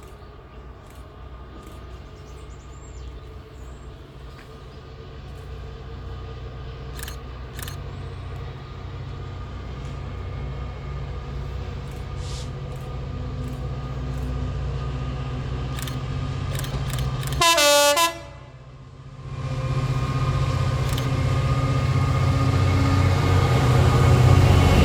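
A train approaching and growing steadily louder, sounding a short horn blast about three-quarters of the way through, then running closer and louder.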